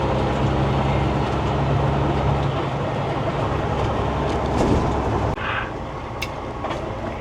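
Semi-truck engine running while driving, heard inside the cab as a steady drone with road noise; the engine note eases off about two and a half seconds in and drops again a little after five seconds, with a few light clicks near the end.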